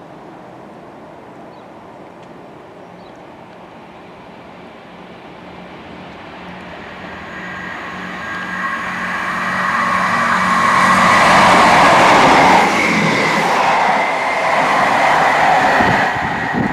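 A train approaching and running past on the line, growing louder from about five seconds in to its loudest around twelve seconds in, then staying loud, with a steady high tone over the rumble.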